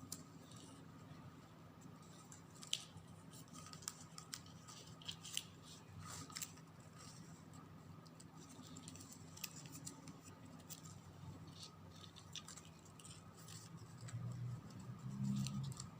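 Faint rustling and small scattered clicks of satin ribbon being bent and threaded through loops by hand, over a steady low hum.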